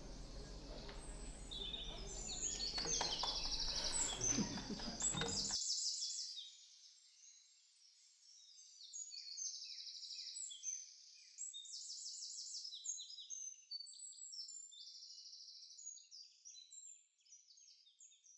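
Small songbirds singing: quick, repeated high chirps and trills. There is faint rustling and knocking in the first few seconds.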